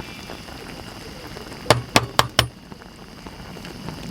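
Four sharp clinks of small hard objects knocking together in quick succession, a little under two seconds in, over a steady background hiss.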